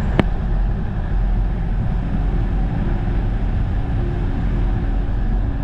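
Steady low wind rumble on the microphone of a camera carried on a moving bicycle, with one sharp click about a quarter second in.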